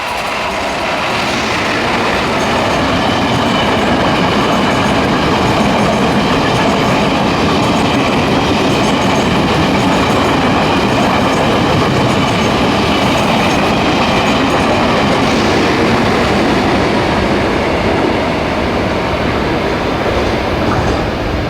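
Push-pull express train hauled by an E500-series electric locomotive running past at speed: a steady, loud rush of wheels on rail that builds over the first couple of seconds and then holds.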